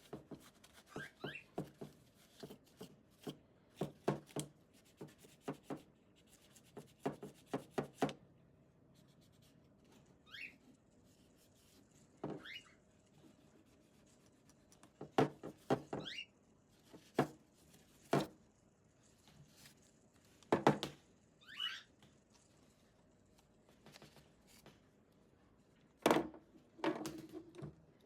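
Irregular clicks, taps and knocks of hard plastic parts and small tools being handled, some in quick clusters, with a few short rising squeaks.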